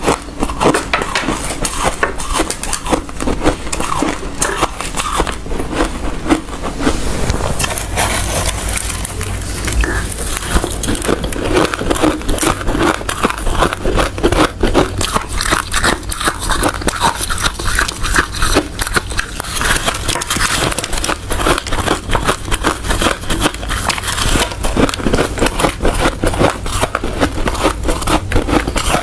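Close-miked chewing of hard, refrozen ice: a continuous run of loud, rapid crunches and crackles as the ice is bitten and ground between the teeth.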